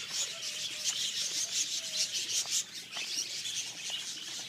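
A flock of budgerigars chattering, a dense continuous twitter of many short high chirps.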